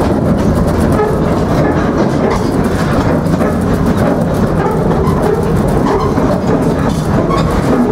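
Narrow-gauge train rolling along the track: a steady rumble with irregular wheel clacks and car rattles.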